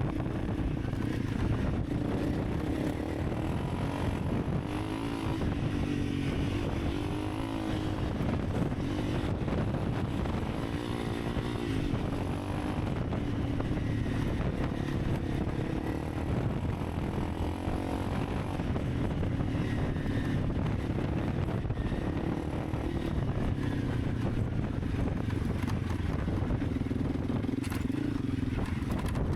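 Honda CRF300 Rally's single-cylinder engine running steadily while the bike is ridden, its pitch wavering up and down a little with the throttle.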